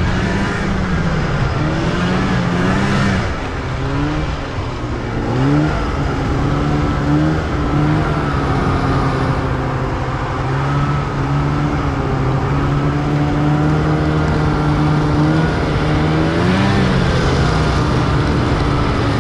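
Small motor vehicle engine running steadily, its pitch climbing about five seconds in and rising and falling again near the end as the throttle changes.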